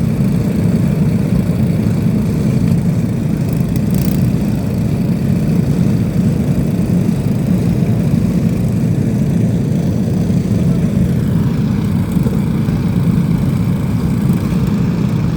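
Lawn mower engines running together in a loud, steady drone.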